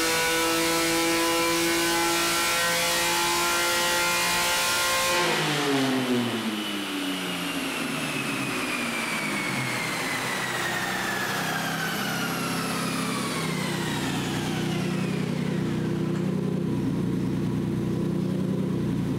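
Naturally aspirated car engine on a chassis dyno held at high, steady revs, then let off about five seconds in: the engine note drops away and a high whine falls slowly in pitch as the dyno rollers and drivetrain coast down, until the engine settles to idle near the end.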